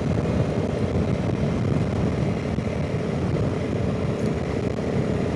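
Honda CRF300 Rally's single-cylinder engine running steadily at road speed, mixed with wind rushing over the rider's microphone.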